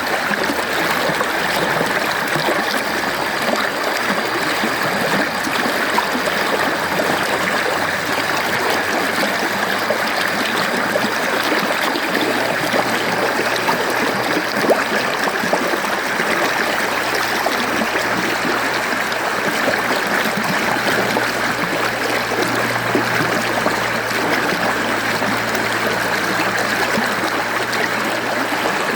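Mountain stream flowing steadily, an even, unbroken rush of water.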